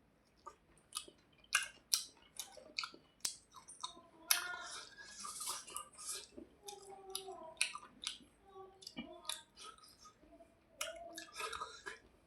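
A person chewing a mouthful of rice and fish close to the microphone, with many irregular short clicks and smacks of the mouth.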